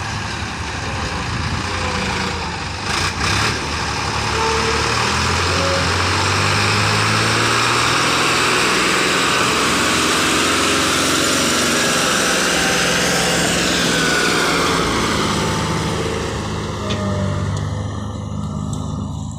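Ford 3610 tractor's three-cylinder diesel engine running, growing louder about four seconds in and easing back a few seconds before the end.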